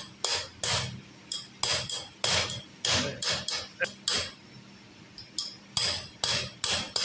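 Hammer blows on the metal parts of a pneumatic grease pump being dismantled, each strike ringing briefly, about two to three a second, with a pause a little after four seconds in before the blows resume.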